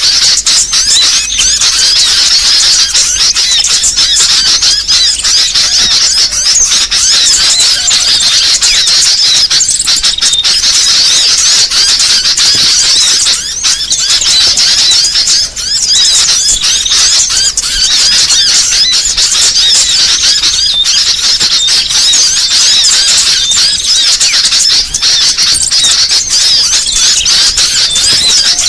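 Dense, loud chatter of many small songbirds calling at once, a continuous mass of high chirps and twitters: a lure recording of noisy small-bird calls used to draw small birds in for catching.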